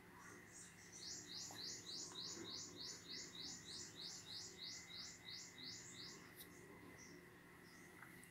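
A bird calling faintly: starting about a second in, a rapid, even series of high chirps, each rising in pitch, about three a second for some five seconds.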